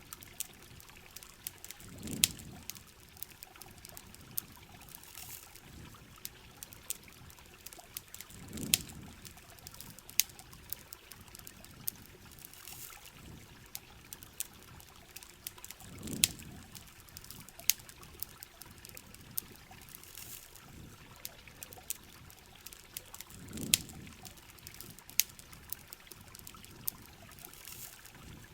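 Heavy rain and a campfire together: a steady rain hiss with sharp crackles and pops, and a low rushing swell of water about every seven or eight seconds.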